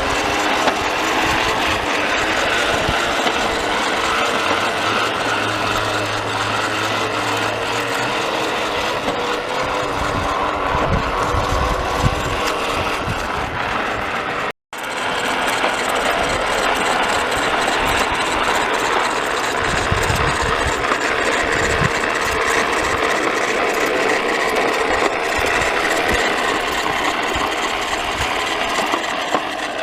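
Toy bubble lawn mower running and being pushed, a steady engine-like drone with rattling. The sound cuts out for an instant about halfway through.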